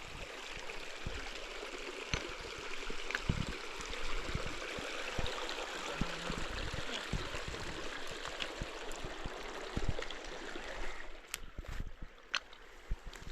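Water running steadily, then stopping about eleven seconds in, followed by a few sharp clicks.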